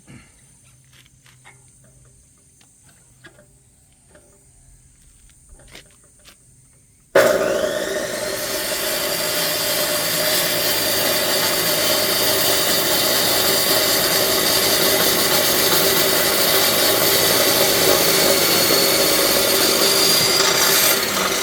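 A few light knocks, then about seven seconds in an electric chop saw's motor starts with a rising whine and its blade cuts into a firewood log, running loud and steady from then on.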